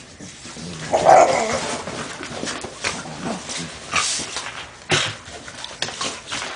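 A dog at play, giving a loud vocal burst about a second in, followed by repeated sharp clicks and scuffling.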